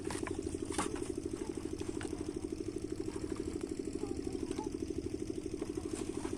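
8 hp Rajkot single-cylinder diesel engine of a water pump set running steadily, its exhaust beats even at about ten a second.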